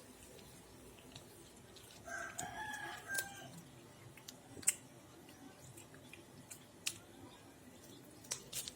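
A rooster crowing once, about two seconds in, for about a second. Around it, a few sharp clicks, the loudest about halfway through.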